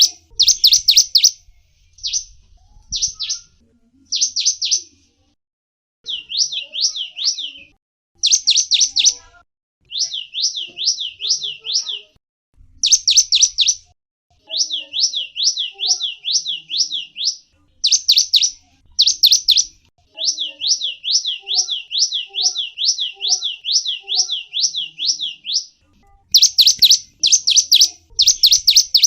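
Zebra finch calling and singing in bouts of rapid high chirps, each bout a quick string of short notes that sweep down in pitch, several a second, with brief pauses between bouts.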